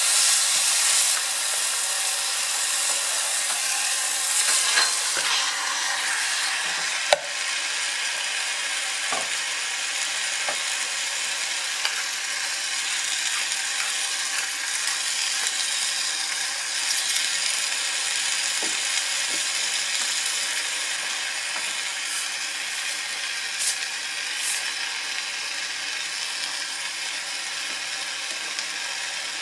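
Tomatoes and onions sizzling in a hot wok, stirred with a wooden spatula, with raw chicken pieces added to the pan; the frying hiss is steady and slowly grows quieter. A single sharp knock comes about seven seconds in.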